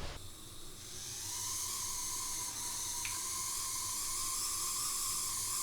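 Small electric motor of an Oxford Rail Class 415 Adams Radial model locomotive starting about a second in and running steadily with a high whine and hiss. The owner takes the noise for a motor problem.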